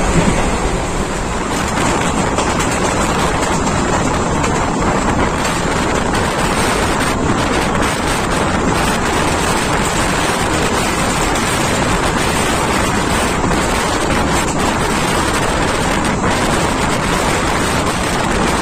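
Passenger train running at speed, heard from on board: a loud, steady rush of wheels on the rails mixed with wind buffeting the microphone.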